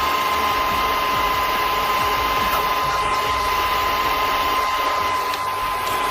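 Machinery running steadily: an even mechanical din with a constant high whine over it.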